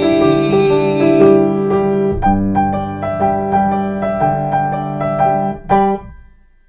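Piano playing the closing bars of a song in a steady rhythm, ending on a final chord a little before the end that rings and dies away to silence.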